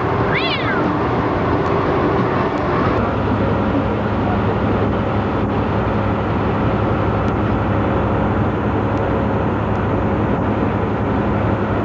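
Tractor-trailer's engine and road noise heard from inside the cab: a steady, unbroken drone at cruising speed.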